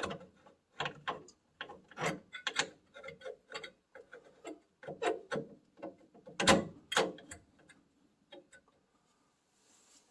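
Metal parts scraping and knocking irregularly as an oil furnace burner's nozzle and igniter assembly is worked back into place. The loudest knocks come about six and a half seconds in, and it goes much quieter about two seconds before the end.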